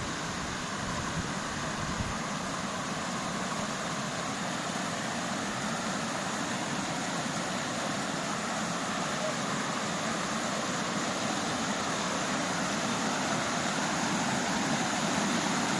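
Steady rush of falling water from a mountain waterfall, growing slightly louder over the stretch, with a few low bumps on the microphone in the first couple of seconds.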